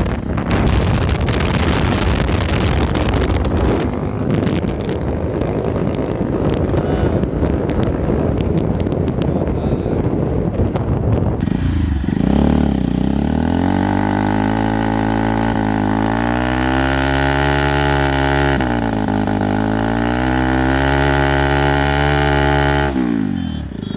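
Bajaj Pulsar 220's single-cylinder engine through an aftermarket SC Project exhaust. For the first half there is a rough, noisy rush with crackling; about halfway through the engine note becomes clear and is held at high revs, its pitch sagging and recovering twice before it drops away just before the end.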